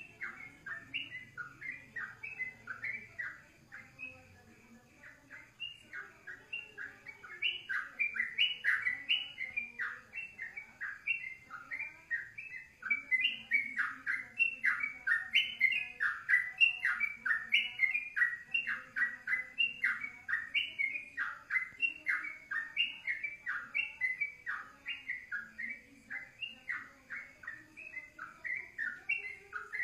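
A songbird singing a long, continuous song of short, repeated chirping notes, about three a second, getting louder a few seconds in.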